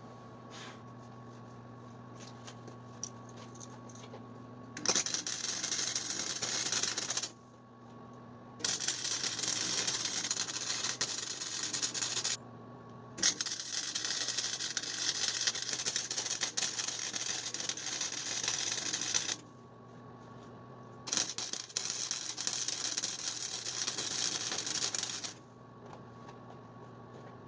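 Arc welder crackling in four runs of a few seconds each, welding an exhaust support bracket in place, each run starting and stopping sharply. A steady electrical hum sits underneath throughout.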